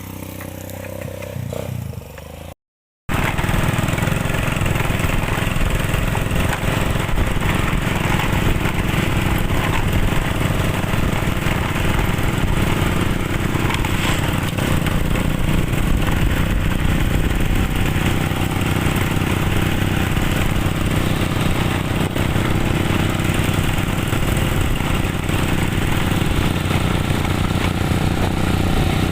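Motorcycle engine running steadily while riding, a loud even hum with a noisy rush over it; it comes in after a brief cut about three seconds in.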